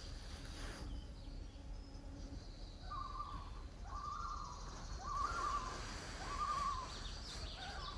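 A bird calling outdoors: a series of four or five wavering, whistled notes, each about half a second long and roughly a second apart, starting a few seconds in, over a low steady background hiss.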